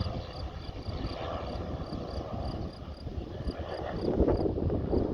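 Wind buffeting the microphone, strongest about four seconds in, over the faint steady drone of a light aircraft's engine climbing away after takeoff. Insects chirp steadily, about three short chirps a second.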